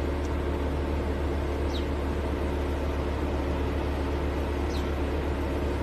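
Maserati Levante SUV's engine running steadily at idle, an even low hum with no revving. A few faint short high chirps sound over it.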